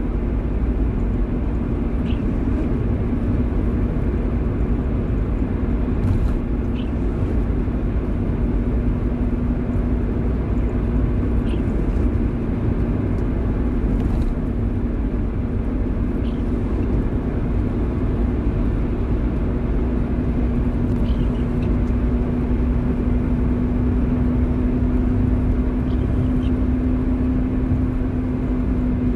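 Car driving in the rain: a steady low road and engine rumble with a constant hum that rises slightly near the end, and a few faint light ticks scattered through it.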